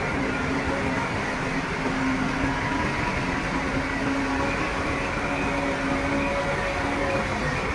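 Bulldozer's diesel engine running steadily under work, with a few faint steady whining tones over the noise.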